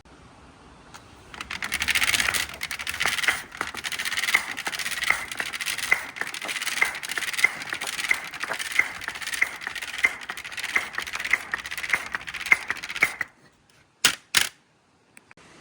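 Marbles rolling and clattering along a marble run track, with a steady patter of clicks and a regular louder clack about one and a half times a second. The clatter stops suddenly about 13 seconds in, and two sharp clicks follow.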